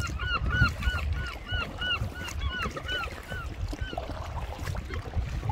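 A bird calling a fast series of short notes that rise and fall in pitch, about four a second, trailing off about three and a half seconds in, over a steady low rumble of wind on the microphone.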